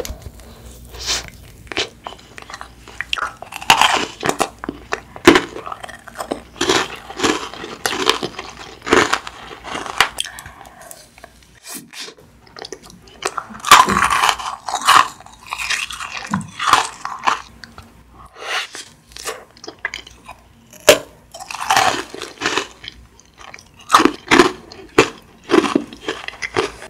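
Close-miked biting and chewing of Maltesers eaten with ice cream: the crisp malted-milk centres crunch and crackle in irregular clusters between the teeth, with short lulls.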